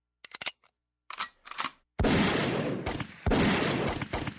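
A few faint clicks, then two loud sharp bangs about two and three seconds in, each trailing off in a long noisy rush.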